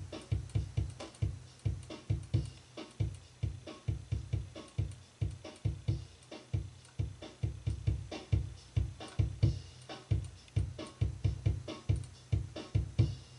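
A recorded acoustic drum kit being played back: a fast, steady beat of kick drum and snare hits, with a heavy low kick.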